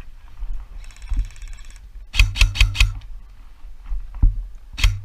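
Airsoft gun firing: a quick string of four sharp shots about two seconds in, about five a second, then a single shot near the end. A short buzz comes about a second in.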